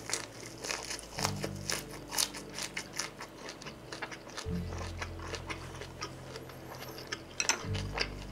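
Close-miked chewing of a perilla-leaf wrap with grilled pork skin, garlic and green chili: a steady run of small sharp mouth clicks.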